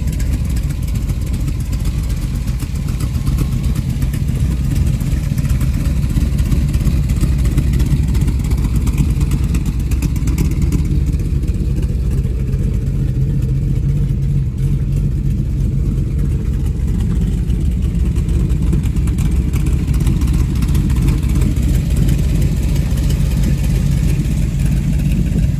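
Cammed 396 big-block Chevrolet V8 of a 1923 Ford T-Bucket hot rod idling steadily and loudly just after being started.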